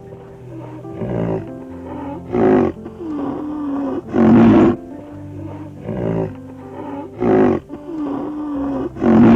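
A large animal giving about six loud, short calls, one every second or two, over steady background music.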